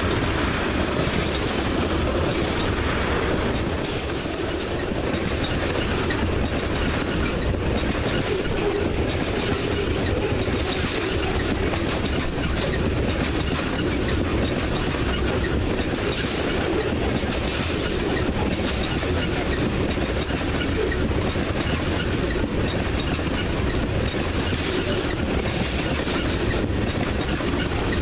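Freight train cars rolling past, with a steady noise of steel wheels running on the rails.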